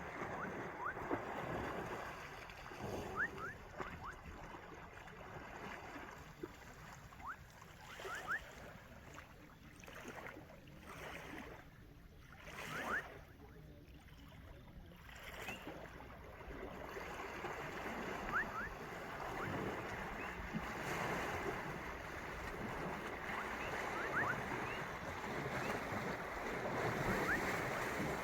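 Water sloshing, splashing and pouring as an African elephant bathes, spraying water over itself with its trunk, in uneven swells that die down around the middle and build again toward the end. A few short, faint rising chirps sound over it.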